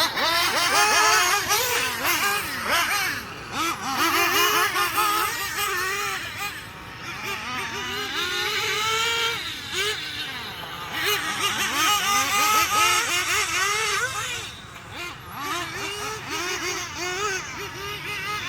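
Freshly rebuilt S-Power S7 RC nitro engine on a test run, revving up and down in quick throttle blips with a high, wavering pitch, easing off twice.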